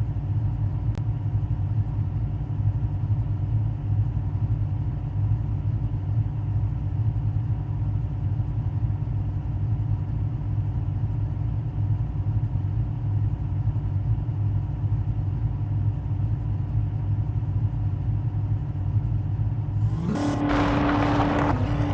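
Car running down the road: a steady low engine-and-road hum with a constant drone. About twenty seconds in, a louder rushing noise and a steady tone join it.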